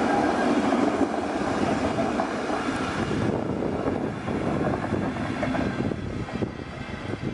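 Freight train of container and trailer wagons passing close by, its wheels rolling over the rails in a loud, steady noise; the higher hiss drops away about three seconds in.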